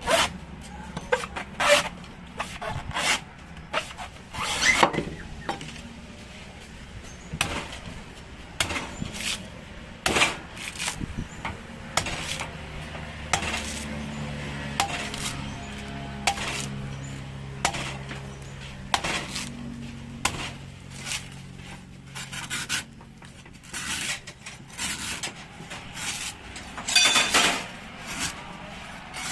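Irregular knocks, clinks and scraping of food preparation: utensils and wooden items handled and struck, sharp sudden hits every second or so, with a loud cluster of them near the end.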